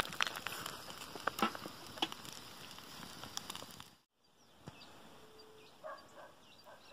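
Charcoal fire crackling with irregular sharp pops over a low hiss. It cuts out about four seconds in, giving way to faint open-air ambience with a few short distant bird chirps.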